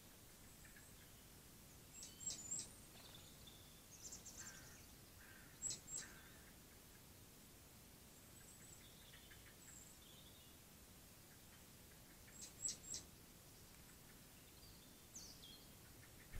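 Small birds calling with short, high, thin notes in quick clusters of two or three, about two seconds in, near six seconds and again near thirteen seconds, with fainter chirps between, over a quiet hiss.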